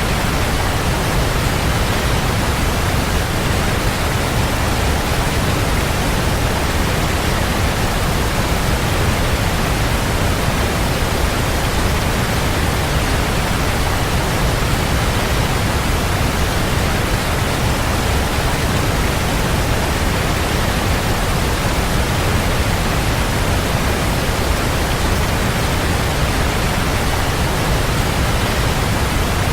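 Waterfall: water falling and splashing in an even, unbroken rush, heaviest in the low end.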